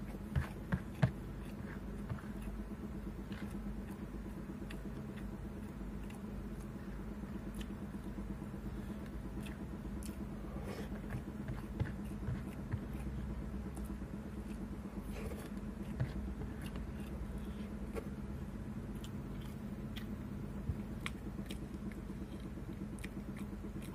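Eating rice by hand: chewing and mouth sounds with scattered sharp clicks, the loudest few about a second in, over a steady low hum.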